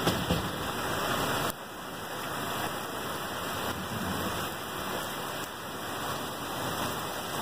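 Heavy storm rain pouring down, a steady even hiss. It steps down a little in level about a second and a half in.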